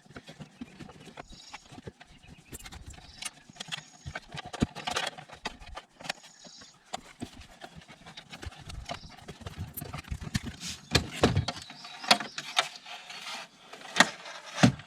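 Irregular knocks, clicks and scrapes of hot tub heater parts and plumbing being handled and worked loose by hand. The knocks become louder and more frequent in the last few seconds, with two sharp knocks near the end.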